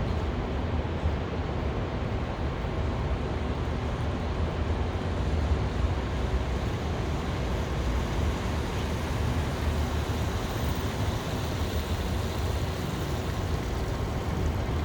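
Steady city street ambience: an even low rumble of traffic with a fainter hiss above it and no distinct events.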